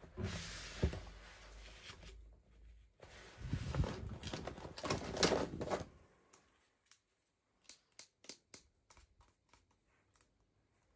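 Toy packaging being handled by hand: a few seconds of rustling and scraping, then a quick run of light clicks and taps.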